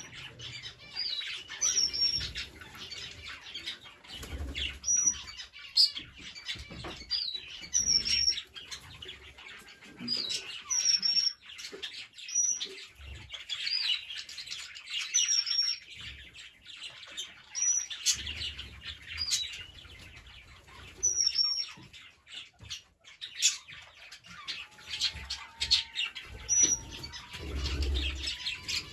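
Green parrots chirping and chattering, with short high calls repeating every second or two over continuous twittering, and a few low bumps.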